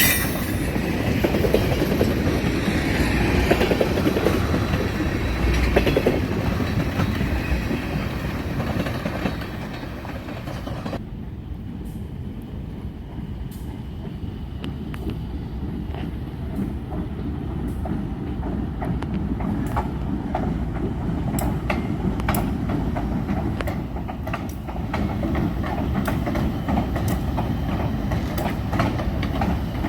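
Freight train rolling past, its wheels clicking over the rail joints. About eleven seconds in, the sound suddenly turns duller, leaving a rumble with scattered sharp clicks.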